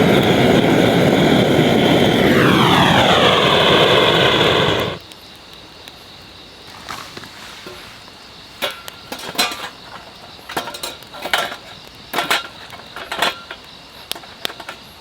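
A loud engine drone whose pitch slides steadily down, cut off suddenly about five seconds in, followed by scattered light knocks and clicks.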